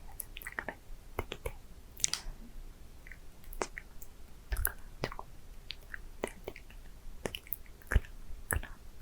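Close-miked mouth sounds: scattered wet clicks and lip smacks, about one or two a second, with faint inaudible whispering between them.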